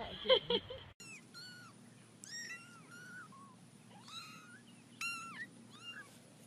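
A kitten mewing: a string of short, high-pitched calls that rise and fall, starting about a second in.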